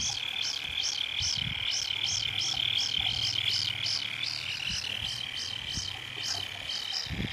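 Kingfisher chick giving its alarm-like begging call: a steady high tone overlaid with rapid, evenly repeated chirps, about three to four a second, a sign that it is hungry and waiting to be fed. A few faint low knocks are heard.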